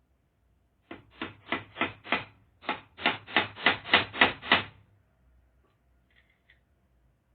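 A hammer driving nails, struck about three times a second in two runs: about five blows, a short pause, then about seven louder blows.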